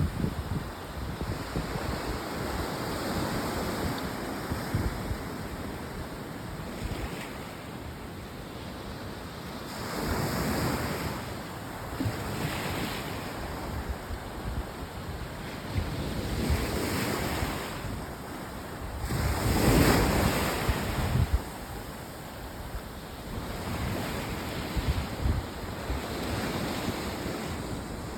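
Ocean surf at high tide, waves breaking and washing in as a steady rush that swells several times, the loudest about two-thirds of the way through. Wind rumbles on the microphone.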